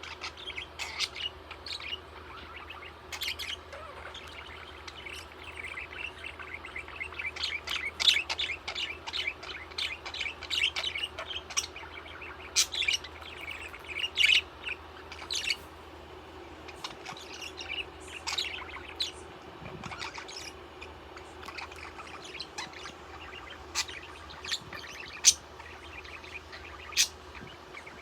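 Pet budgerigar (parakeet) chirping and chattering: a dense run of quick chirps through the middle, then sparser, sharp single chirps near the end.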